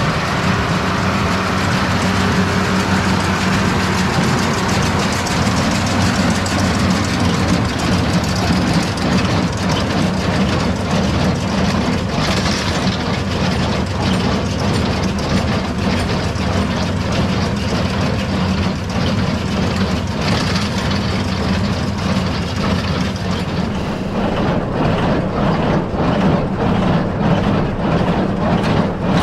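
Case IH 8530 inline square baler at work behind a running tractor: the steady tractor engine under a regular rhythmic clacking and knocking from the baler's mechanism.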